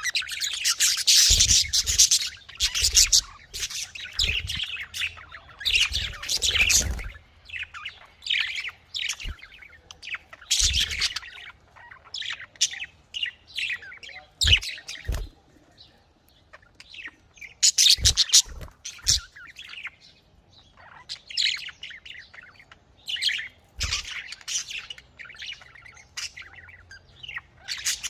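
A flock of budgerigars chattering and chirping in quick, irregular bursts, with a few brief low thuds.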